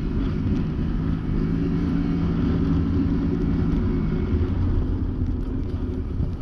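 Can-Am Maverick Sport X mr side-by-side's engine running steadily while driving, over a low rumble. Its note eases and fades somewhat about four seconds in.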